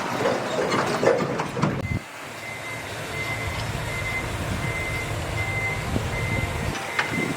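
Heavy earth-moving machinery running, with clanking for the first two seconds, then a reversing alarm beeping about twice a second over a quieter engine.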